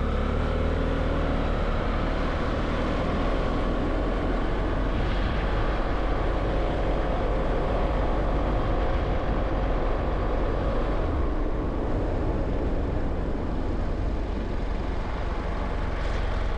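A vehicle under way at a steady cruise: a constant rumble of engine and road noise that holds level throughout.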